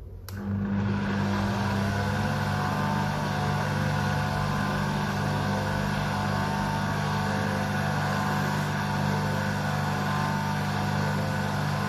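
Electric stand mixer switched on, its motor coming up to speed over the first couple of seconds, then running steadily at low speed as it blends flour into batter.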